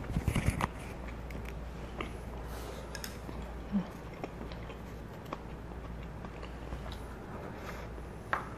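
A person chewing and biting food close to the microphone, with a quick run of sharp clicks in the first second and scattered soft clicks after.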